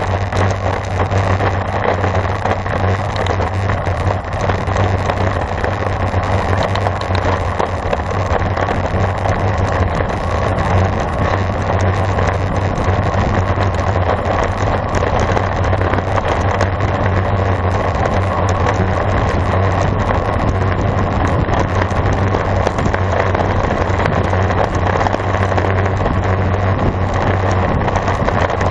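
Steady wind rush and road noise on a camera riding with a road bicycle at speed, with a constant low rumble underneath.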